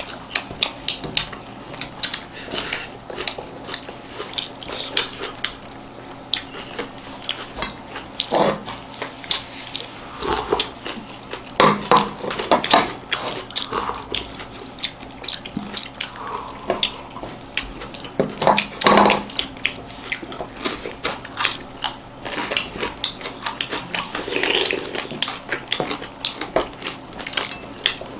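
People eating at a table: chewing and mouth sounds, with scattered clinks and scrapes of plates and cutlery.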